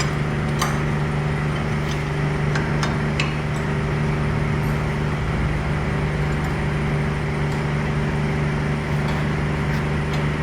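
A machine engine idling steadily, with a few light metallic clicks and clinks.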